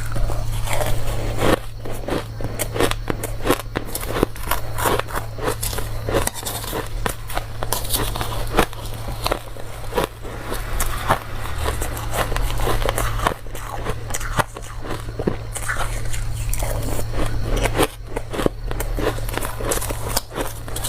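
A person biting and chewing dry, crunchy ice up close to the microphone: dense, irregular crunches and crackles, over a steady low hum.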